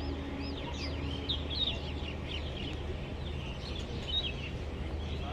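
Many small birds chirping in quick, short chirps, over a low steady hum.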